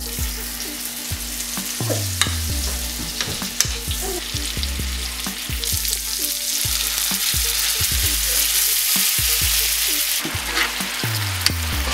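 Shrimp sizzling steadily as they sauté in garlic butter in a frying pan, with scattered light clicks.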